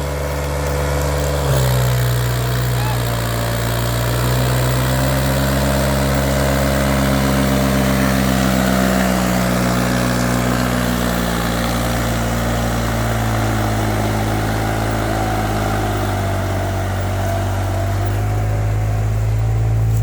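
New Holland 3630 tractor's diesel engine running steadily. Its pitch steps up about a second and a half in, then wavers slightly.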